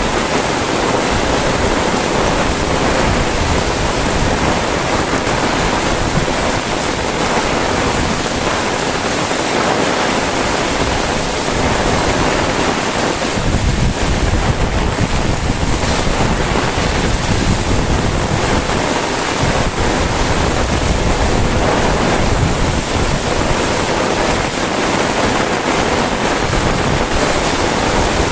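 Heavy rain falling steadily, with wind buffeting the microphone in a low rumble that is strongest about halfway through.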